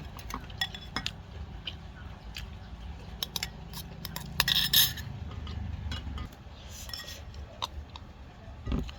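Eating utensils clinking and scraping against dishes: a scattering of short clinks, with a louder run of clatter about halfway through.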